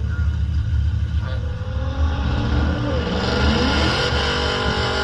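A car engine revving, its pitch rising and falling, over a steady low rumble; a hiss joins about three seconds in.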